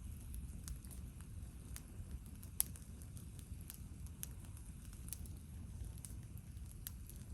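Wood campfire crackling, with scattered sharp pops, the loudest about two and a half seconds in, over a low steady rumble.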